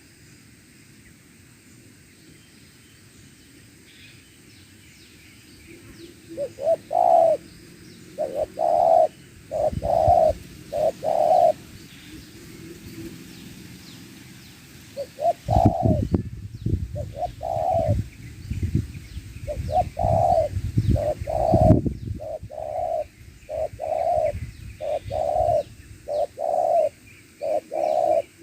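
Spotted dove cooing, starting about six seconds in: repeated short coo notes in phrases, one bird answering another. A low rumble sits under the calls for several seconds in the middle.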